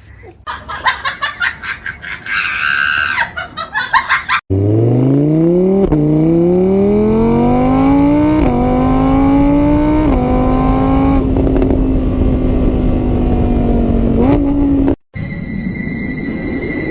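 Car engine accelerating hard through the gears, its pitch climbing and dropping back at each of about three shifts, then holding steady. It follows a few seconds of quick rhythmic music, and it cuts off suddenly near the end into steady high tones.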